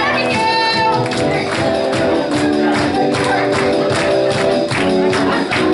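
Live gospel worship music: instruments holding chords under a steady tambourine beat, with voices singing over it.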